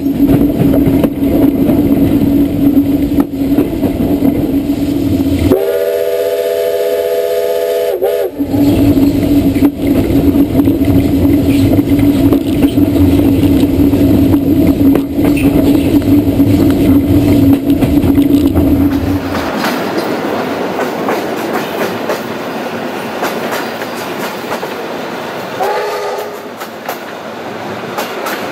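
Electric train running along the track with a steady hum. Its horn sounds once for about two and a half seconds, starting about six seconds in, and bends down in pitch as it stops. A short, fainter horn note comes near the end.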